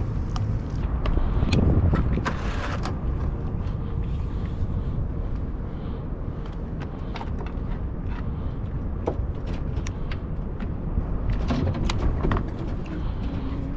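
Fishing-boat ambience on open water: a steady low rumble with scattered clicks and knocks.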